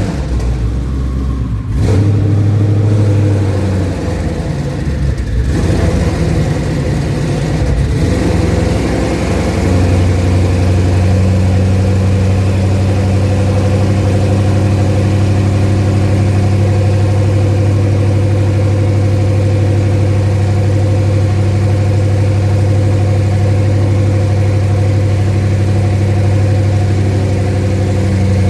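2020 Mustang Shelby GT500's 5.2-litre V8, newly fitted with twin turbos, running on its first start after the build with the rear exhaust not yet connected. Its speed rises and falls unevenly for the first several seconds, then it settles into a steady idle about ten seconds in.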